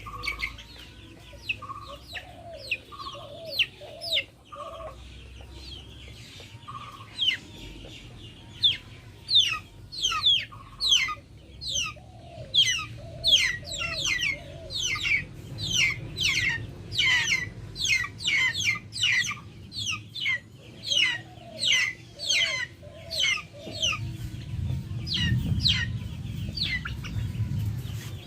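Backyard chickens clucking, with many short, high, falling chirps that come thick and fast through the second half.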